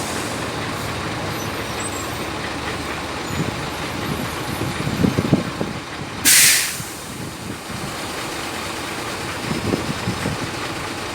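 Heavy diesel engines of an excavator and a Howo dump truck running steadily. About six seconds in there is a short, loud hiss of air, like the truck's air brake releasing. Low thuds come around five seconds and again near ten seconds.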